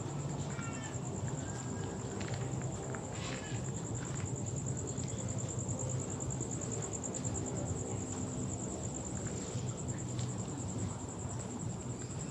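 Insects trilling at night: a steady, high, fast-pulsing trill over a low steady rumble, with a few short chirps.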